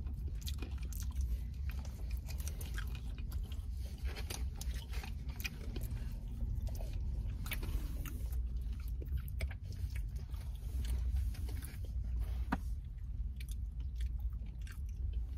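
Close-up chewing and biting of fried chicken wings, heard as many short wet clicks and crunches of mouth noise.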